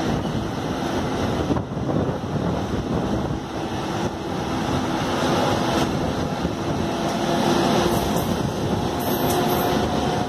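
Running noise of a Mumbai suburban electric local train heard from aboard while it moves: a steady rumble of wheels on track mixed with wind rush, with a faint steady hum coming in about three seconds in and the noise growing a little louder toward the end.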